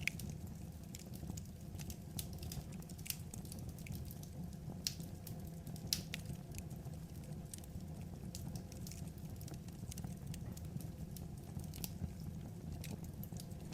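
Wood fire burning, with irregular sharp pops and crackles of the burning logs over a steady low rumble.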